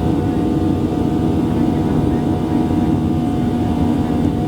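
Boeing 737 jet engines running at takeoff thrust, heard inside the passenger cabin: a loud, steady rumble with a constant hum.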